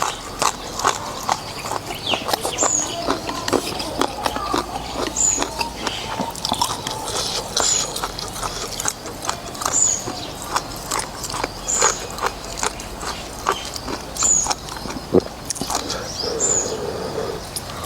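Close-up eating sounds: noodles with beef soup being slurped and chewed, with many short wet smacks and clicks. Over them, a short high chirp repeats about every two and a half seconds.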